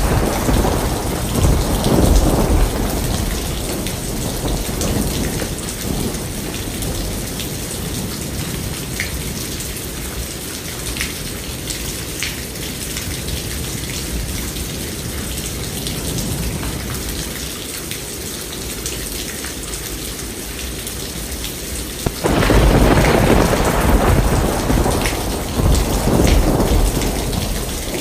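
Steady heavy rain falling, with thunder: a deep rumble dies away over the first few seconds, then a sudden loud thunderclap breaks about three quarters of the way through and rolls on.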